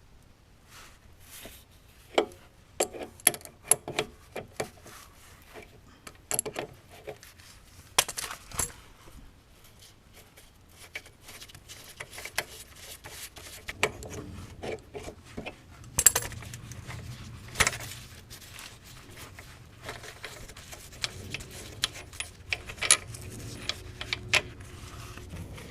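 Irregular metallic clinks and sharp knocks of hand tools, wrench and socket on steel, working the shock absorber mounting bolts. A low steady hum comes in about halfway through.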